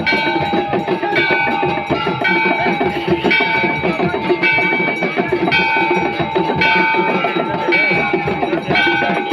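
Temple bells struck roughly once a second during aarti, ringing over a steady din of drums and other percussion, with one tone held throughout.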